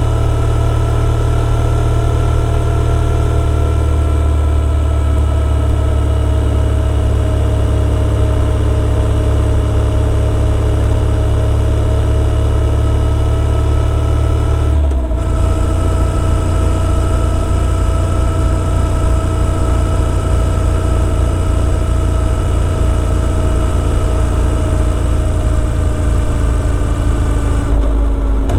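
Motorcycle engine running steadily under way, with a brief break in the sound about halfway through and the engine note falling near the end.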